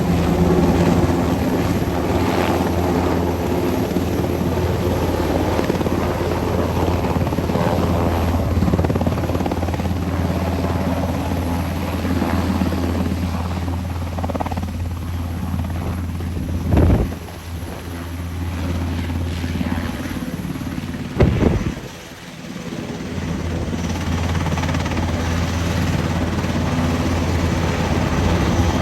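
French Air Force helicopter passing with a steady rotor and turbine drone, its low beat constant throughout. Two brief loud bumps break in about two-thirds of the way through, followed by a short dip before the drone comes back up.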